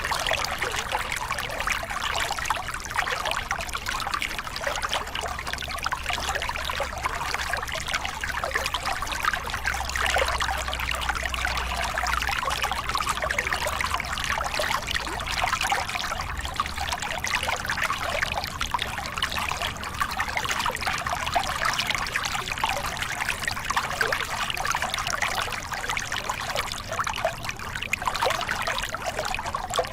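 Small river cascade: water splashing and gurgling over rocks in a steady, even rush.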